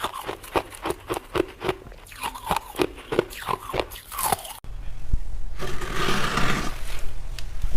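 Freezer frost being bitten and chewed: a run of quick, crisp crunches, about three or four a second. About four and a half seconds in the sound cuts abruptly to a louder, denser crunching and scraping noise that swells briefly and falls back.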